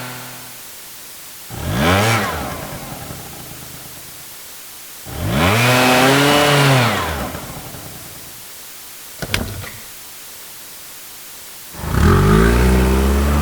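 Motorcycle engine revved twice, first a short blip and then a longer rev that climbs, holds and falls back, followed by a brief click. Near the end a car engine starts up loudly as it gets under way.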